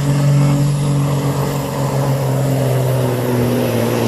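Supersport-class pulling truck's diesel engine held at high revs under load as it drags the weight sled, a steady loud drone.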